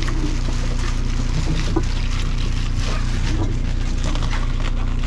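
Boat engine running steadily with a low, even hum, under wind and water noise and a few light knocks.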